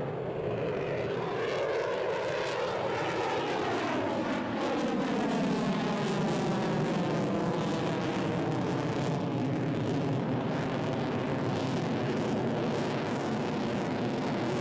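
Jet aircraft flying past, a steady loud engine rush whose tone sweeps downward in the first few seconds and then evens out.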